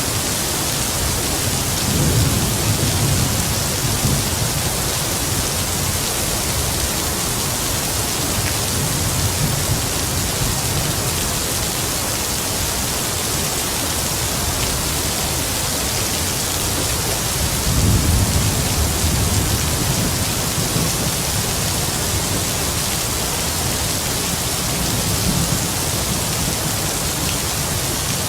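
Heavy rain falling steadily, with distant thunder rumbling low twice: a few seconds in and again about two-thirds of the way through, with fainter rolls between.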